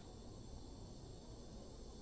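Insects in the surrounding vegetation making a continuous high-pitched trill, steady and unbroken, over a faint low background rumble.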